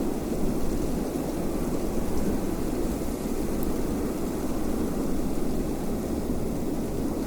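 Steady, low wind noise, a deep even rush with no gusting breaks.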